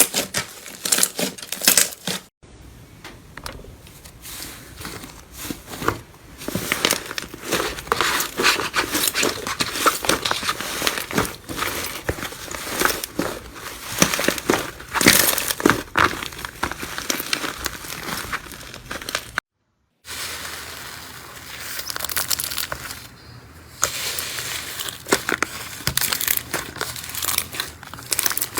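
Slime being squeezed, pressed and stretched by hand, giving dense irregular crackles, clicks and pops. The sound breaks off briefly twice as one clip gives way to the next.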